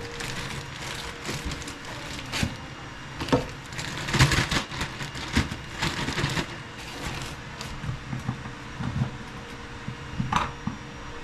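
Irregular knocks, scrapes and clatter of hard objects being handled during work on a toilet being swapped out, with the busiest, loudest stretch about four seconds in.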